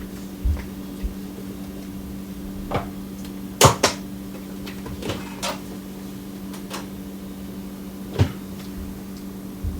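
Scattered knocks and clicks of kitchen utensils and containers being handled, about eight in all, the loudest a quick double knock about three and a half seconds in, over a steady low hum.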